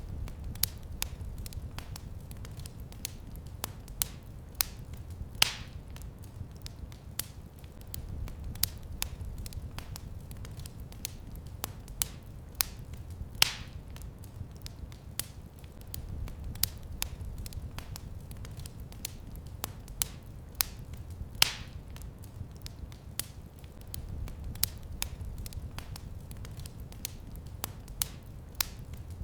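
Wood fire crackling in a fireplace: many small sharp pops and ticks over a low steady rumble, with a louder snap about every eight seconds.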